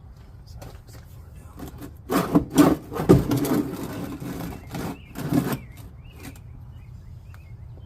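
A few seconds of clattering knocks and scraping, hard objects being handled and dragged, loudest around the middle.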